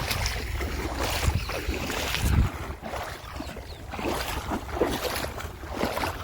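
Wind buffeting the microphone in a low rumble, over a rushing wash of floodwater.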